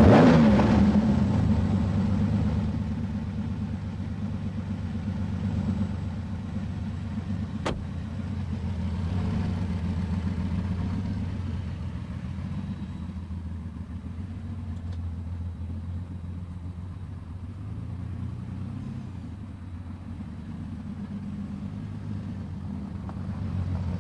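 Lamborghini Countach 5000 Quattrovalvole V12 engine starting with a loud rev that settles over about two seconds, then running steadily at low revs with a slightly wavering pitch, getting a little louder near the end.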